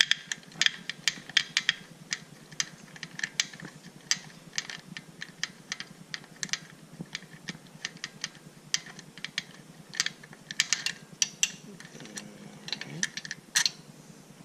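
Ratchet wrench clicking in short, uneven runs of sharp clicks as the kickstarter bolt on a pit bike is worked loose.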